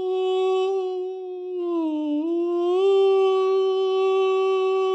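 A woman's voice holding one long hummed tone, dipping slightly in pitch about two seconds in and then settling a little higher and holding steady: vocal toning used as channelled 'light language'.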